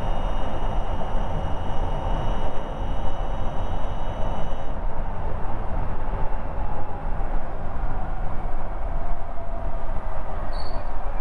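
Ather 450X electric scooter on the move: heavy wind rumble on the microphone with the electric motor's thin high whine, which cuts out about halfway through the first half. A fainter tone slides down in pitch later on.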